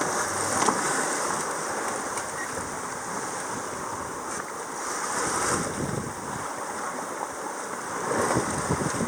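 Sea water rushing and washing along a sailboat's hull as it sails through ocean swell, with wind buffeting the microphone; the rush swells up three times.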